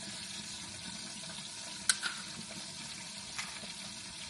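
Steady hiss of a pot of cream sauce simmering on the stove, with one sharp click about two seconds in.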